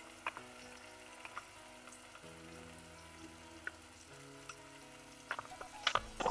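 Chopped onions frying gently in butter in a pot: a soft, steady sizzle with scattered small crackles. There is a short run of louder clicks about five to six seconds in.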